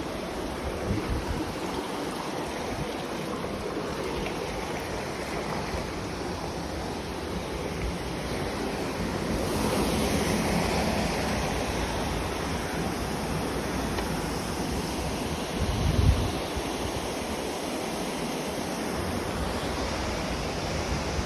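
Waterfall rushing: a steady, even roar of falling water that swells a little about ten seconds in. A brief low thump on the microphone comes about sixteen seconds in.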